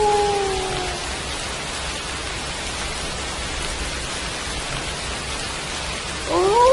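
Steady rain falling, with a wolf's howl sliding down in pitch and fading out within the first second. Near the end a new howl begins, rising sharply and then holding one steady note.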